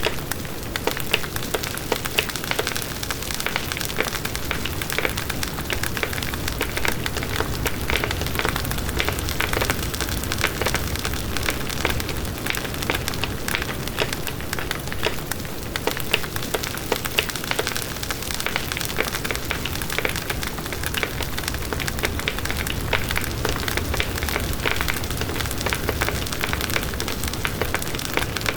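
Campfire burning steadily, with a constant low rumble of flames and frequent small crackles and pops from the burning wood.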